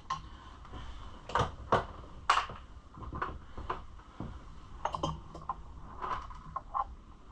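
Irregular knocks, clicks and scrapes of hands and tools working parts loose on a dirt bike's intake, with the loudest knocks at around one and a half and two and a half seconds in.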